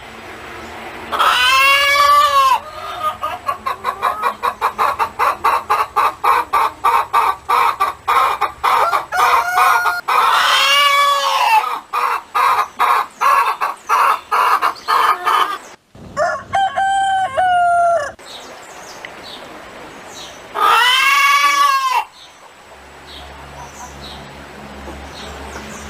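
Chickens: a rooster crowing three times, each crow a long rising-and-falling call. Between the crows there is fast, even clucking.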